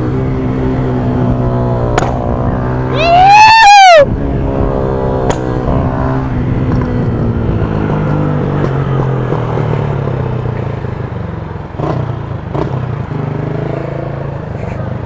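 Motorcycle engine running steadily on the move, with one loud throttle blip about three seconds in whose pitch rises and falls. A few sharp exhaust pops crack out at scattered moments.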